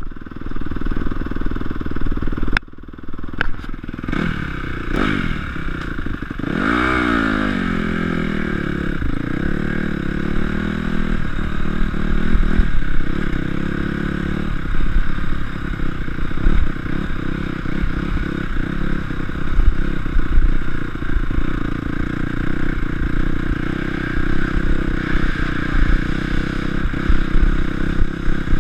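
Honda CRF250 four-stroke motocross engine revving up and down as the bike is ridden, heard close up from the rider's chest. After a brief dip about two seconds in, the pitch swings up and down sharply, then runs on more steadily with rises and falls in revs.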